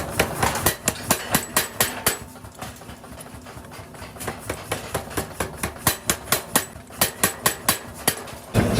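Rapid hammer blows, sharp strikes about four a second, stopping for about two seconds in the middle before starting again.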